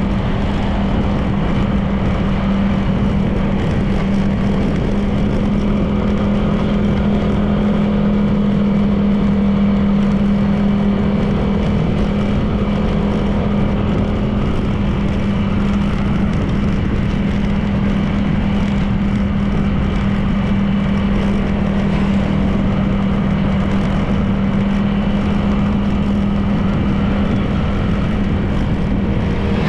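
Honda PCX 160 scooter's single-cylinder engine running at a steady, even pitch while riding, with road and wind noise.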